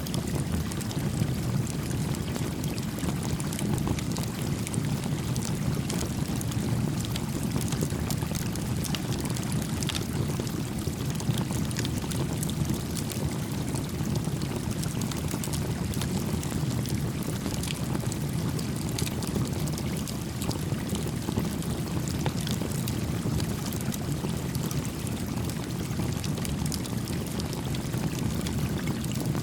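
Small campfire crackling with scattered sharp pops over a gently flowing creek whose steady, even rushing stays constant.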